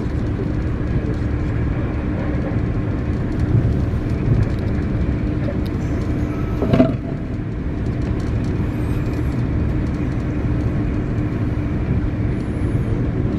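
Passenger train running at speed, heard from inside the carriage: a steady rumble with a low hum, and one short knock about halfway through.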